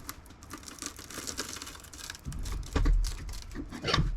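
Handling noise: quick clicks, rattles and rustling of hard objects being moved about, with a couple of dull low thumps near the end.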